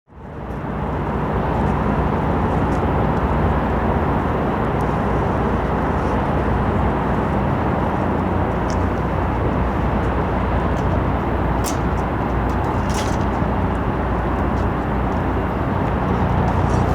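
Steady low ship's engine drone under a broad, even rushing of wind and water.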